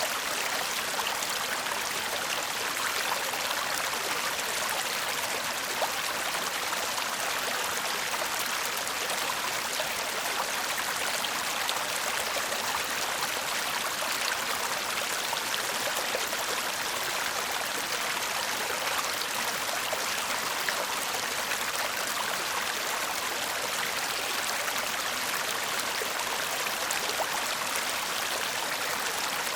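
Shallow stream babbling and trickling over stones: a steady, even wash of water noise with fine splashing detail.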